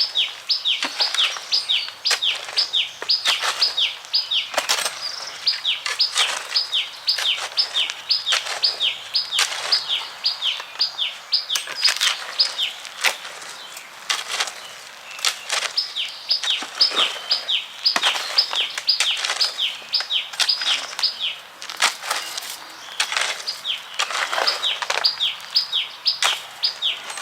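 A bird singing a rapid run of high, down-slurred notes, repeated in bouts of several seconds, over irregular knocks and scrapes from hand cement-and-rock work.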